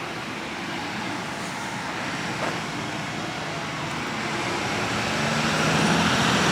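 Traffic noise from a passing motor vehicle, a steady rushing sound that grows louder toward the end.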